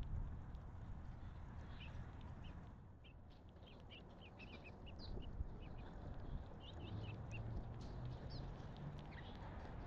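Small wild birds at a feeding spot chirping and calling in short, scattered notes, thickest through the middle, over a steady low rumble.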